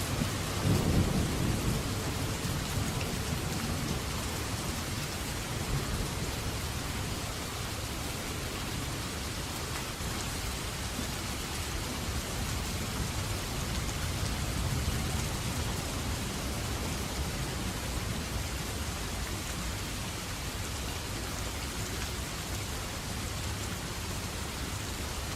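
Steady heavy rain, with a roll of thunder rumbling low and dying away in the first couple of seconds.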